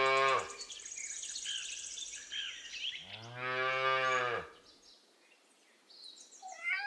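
Calf mooing: one call ends about half a second in, and a second, about a second and a half long, comes about three seconds in. Birds chirp behind the calls.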